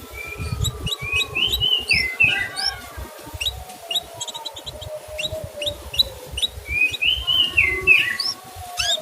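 Male canary chirping: rapid short rising 'cuit' notes repeated throughout, with a longer slurred, falling phrase about two seconds in and again near the end, over an irregular low rumble.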